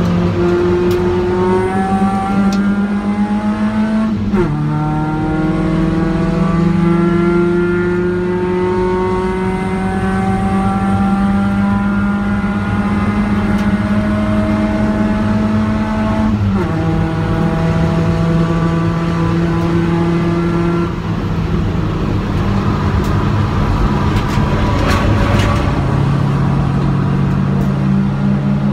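Car engine heard from inside the cabin while driving on a track, its note climbing steadily under acceleration. The note drops sharply at upshifts about 4 seconds in and again around 16 seconds, then settles lower toward the end. The car appears to be a Mk1 Ford Focus.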